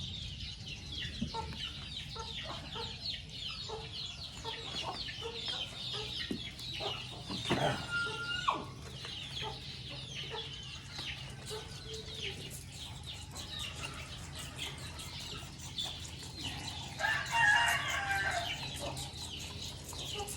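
A flock of chickens clucking continuously as they gather at thrown feed. There is a louder, drawn-out call about seventeen seconds in.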